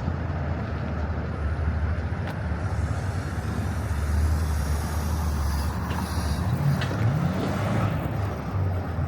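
A vehicle engine running steadily at idle, a continuous low rumble with road and outdoor noise around it.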